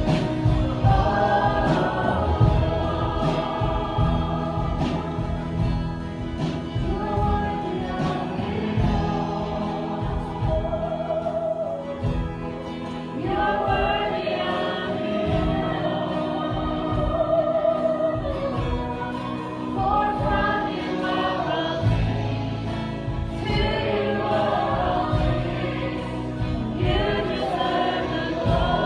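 Worship music: a group of voices singing with band accompaniment, a steady bass and drums underneath.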